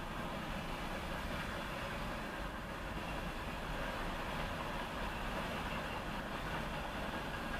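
Freight train cars rolling steadily past on the track, a mix of gondolas, hoppers and tank cars, heard from inside a stopped vehicle.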